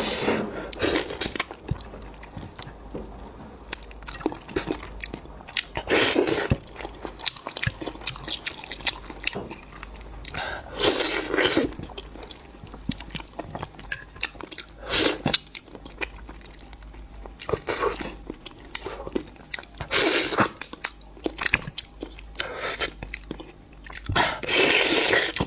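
A person eating seafood: chewing and crunching, with louder bursts every few seconds and small clicks in between.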